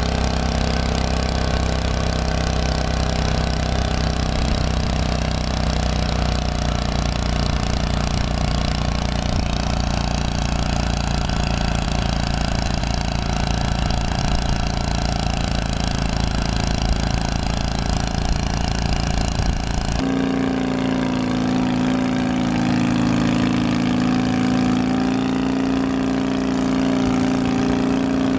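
Small single-cylinder-type engine of a walk-behind tractor running steadily. About 20 s in, it cuts abruptly to another engine running at a steady, higher pitch.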